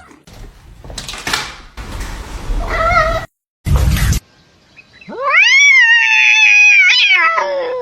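A cat's long, loud meow, starting about five seconds in, rising, held for nearly three seconds and falling away at the end. Before it comes a few seconds of noise and a short clip break.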